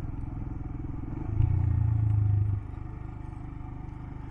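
Royal Enfield Himalayan's single-cylinder engine running with a steady pulse, getting louder for about a second in the middle before dropping back.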